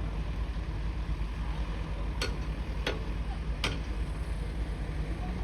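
Bulldozer engine running steadily with a low rumble, and three sharp knocks a little over halfway through.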